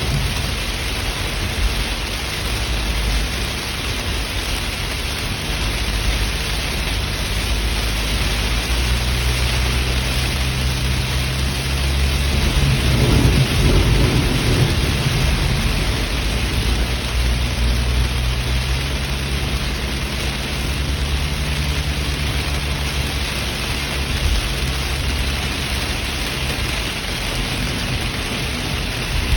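Steady heavy rain from a tropical storm, with a deep low rumble underneath that swells for a few seconds about halfway through.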